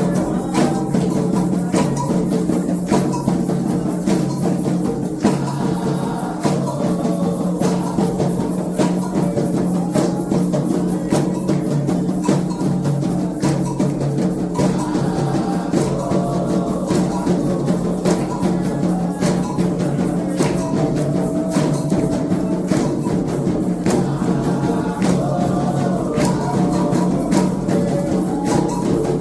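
Percussion-led music with a regular pattern of drum and hand-percussion strikes over a steady low tone, with some singing.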